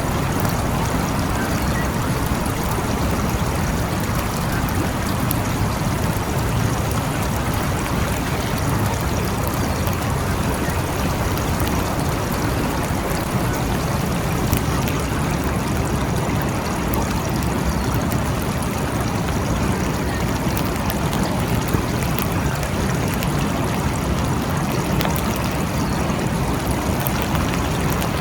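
Steady rain falling, an even hiss of water with a deeper body beneath it and a few separate drops standing out now and then.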